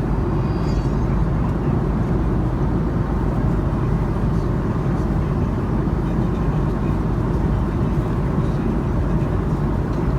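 Steady cabin noise of an Airbus A310-304 in flight: a constant low drone of its GE CF6-80C2 turbofans and airflow over the fuselage, heard from inside the economy cabin.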